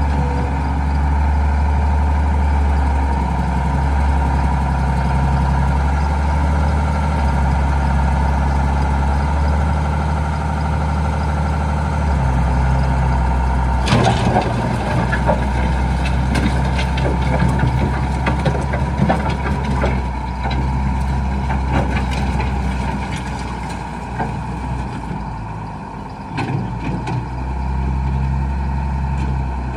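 1998 Case IH Magnum 7120 tractor's six-cylinder diesel engine running steadily. About halfway through there is a sharp clank, then a stretch of rattling and clatter. The engine sound dips briefly near the end.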